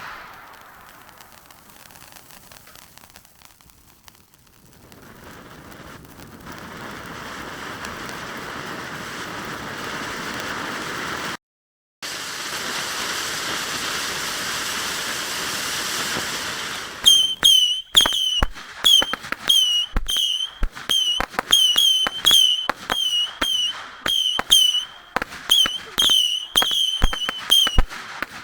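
Ground fireworks going off: a rising spraying hiss, then from about two-thirds of the way through a fast run of sharp cracks, several a second, each with a short high whistling chirp.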